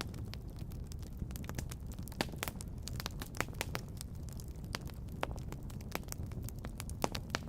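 Wood fire crackling, with irregular sharp pops and snaps, a few louder ones, over a steady low rumble.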